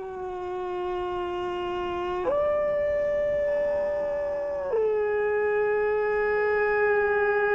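Grey wolves howling: long, steady howls that jump abruptly to a higher pitch and back down, with a second wolf joining at a higher pitch near the end.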